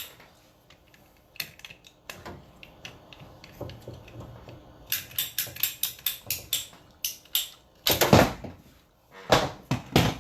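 Tools and parts being handled on a workbench: scattered clicks and rattles, with two louder knocks about eight and nine and a half seconds in.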